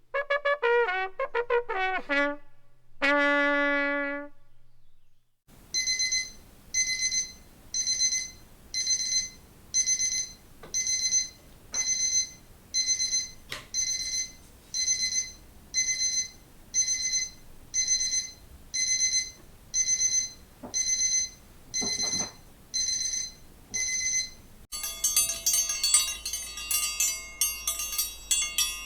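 A bugle plays a short call of several notes, the last held about a second and a half. Then a digital watch alarm beeps in high electronic tones about once a second, for some twenty beeps. Near the end a dinner-bell triangle is rung rapidly, ringing densely.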